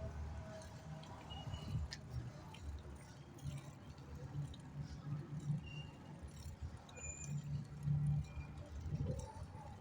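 Wind buffeting the microphone and road rumble while riding a bicycle, with a few short high chirps.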